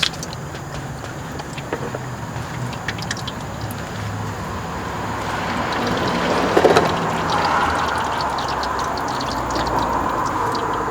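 Liquid gushing out of a motorcycle exhaust and splattering, after the engine has been filled through the intake until it overflows. Partway through, a wider rushing swell joins in and holds.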